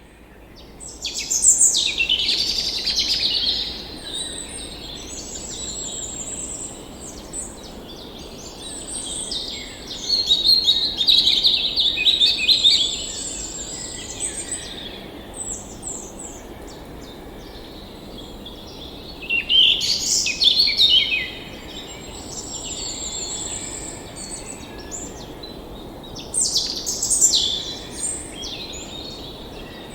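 Songbirds singing and chirping in several overlapping, warbling phrases that come in loud spells a few seconds long, over a steady soft background hiss.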